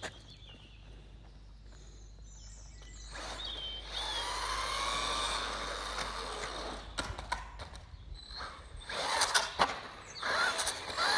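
Small electric motor of a radio-controlled car whining as it speeds up, its pitch rising from about three seconds in. It is followed near the end by a string of sharp clicks and knocks.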